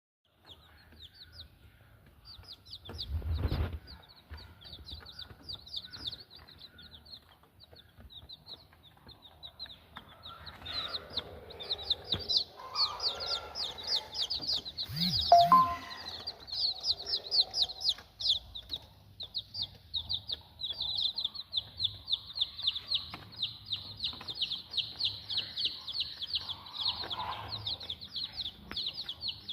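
A brood of week-old village chicks peeping: many short, high, falling cheeps that grow busier after about ten seconds and run almost without a break in the second half. A low thump a few seconds in and a louder brief sound about halfway.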